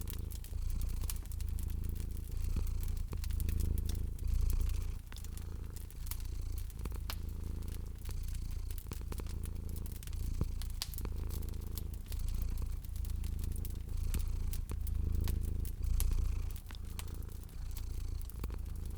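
Domestic cat purring, a low rumble swelling and easing about once a second with each breath, with sharp pops and crackles of a wood fire scattered over it.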